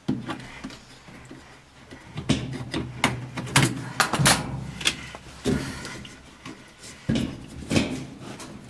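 Irregular knocks, clicks and clunks of hands working at a washing machine's drain pump, pulling a hose off it.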